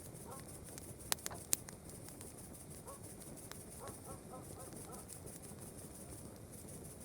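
Campfire crackling, with a few sharp pops in the first few seconds and one more about halfway through. Under it, night insects chirr in a steady high trill, and a small animal gives a few short, faint calls.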